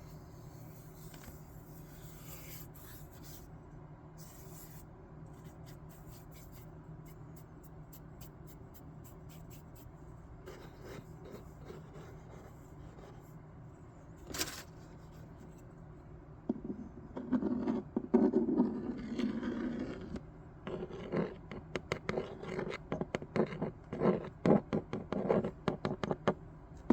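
Paper rubbing and scraping as sheets are handled on a desk. It is faint at first, with a single sharp tick about halfway. About two-thirds of the way in it turns into loud, busy rustling and scraping strokes.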